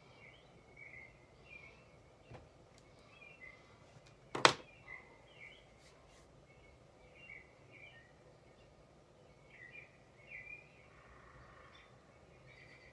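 Small birds chirping over and over in a background ambience, with a faint steady hiss. One sharp knock stands out about four and a half seconds in, with a softer click a couple of seconds before it.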